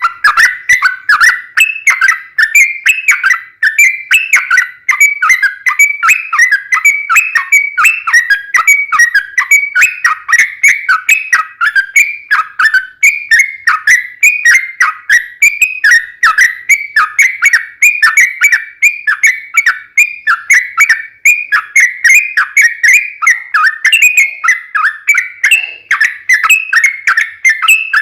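Yellow-vented bulbul (trucukan) singing a long, unbroken run of rapid whistled notes, several a second, in its 'gacor' full-song form.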